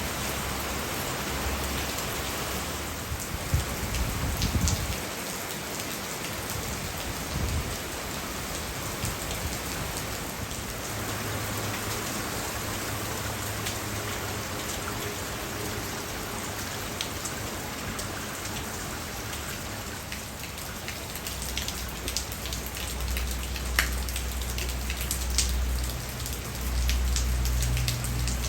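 Heavy rain pouring down, a steady hiss of rain with many sharp drop hits spattering close by. A low rumble comes and goes, loudest near the end.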